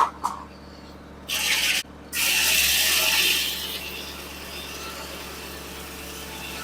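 A sawmill's power unit runs steadily. A sharp click comes at the start, then two loud bursts of hissing noise, a short one about a second in and a longer one about two seconds in that fades off.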